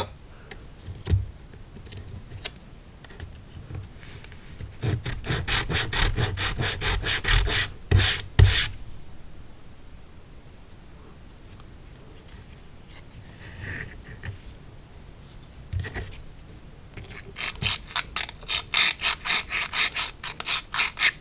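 Laser-cut wood wall piece rubbed back and forth on an emery board in two runs of quick strokes, about three or four a second, sanding smooth the edges where it was attached to the carrier sheet. A few light knocks of the wood being handled fall between the runs.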